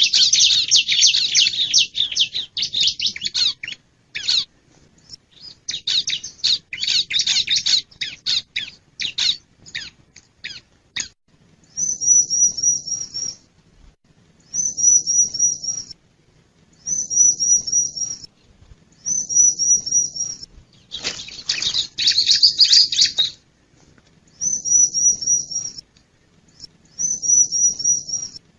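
Bar-winged prinia (ciblek) calling: a fast, dense run of high chattering notes, then short phrases of about five quick, high, evenly repeated notes, each phrase about a second and a half long and repeated every two to three seconds, with one more burst of chatter about two thirds of the way through.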